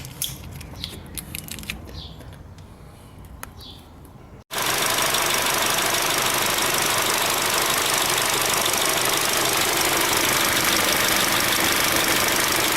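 A few light clicks of hand handling under the hood, then a cut to a Hyundai Bayon's turbocharged petrol engine idling steadily and loudly, up close, with its newly replaced boost pressure (MAP) sensor fitted.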